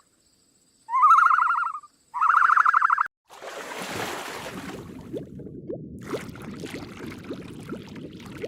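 A bird giving a harsh, rapidly pulsed call about a second long, twice. From about three seconds in, a steady background hiss with scattered clicks follows.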